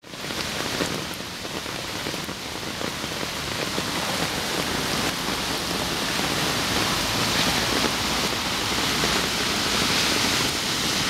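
Fast-flowing floodwater in an irrigation canal swollen by heavy rain, making a steady rushing hiss.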